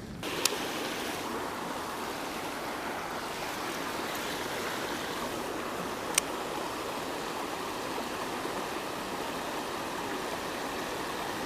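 Creek water running as a steady rushing hiss, with two short sharp clicks, one about half a second in and one about six seconds in.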